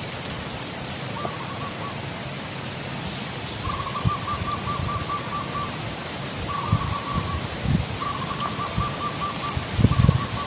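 Zebra dove cooing: runs of quick, rippling notes in five phrases of one to two seconds each, the longest about a third of the way in. Low thumps come through a few times, loudest near the end, over a steady outdoor hiss.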